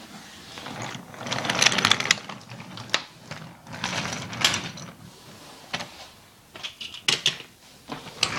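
Toy train rattling and clicking along its track, in uneven swells with sharp clicks.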